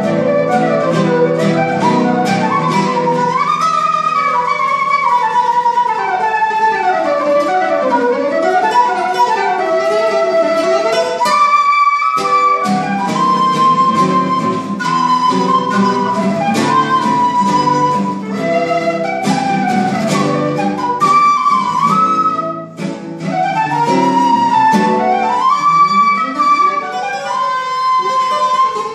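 A flute and guitar duo playing a tango, the flute carrying the melody in quick rising and falling runs over the guitar's accompaniment, with a brief pause between phrases about twelve seconds in.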